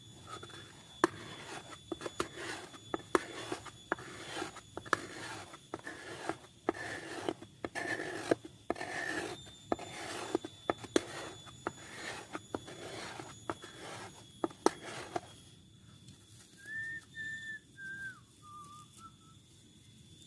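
Repeated scraping strokes, roughly one a second, each starting with a sharp click, typical of a knife scraping a bamboo stem into fine tinder shavings. They stop about fifteen seconds in, and a few short whistled notes follow near the end.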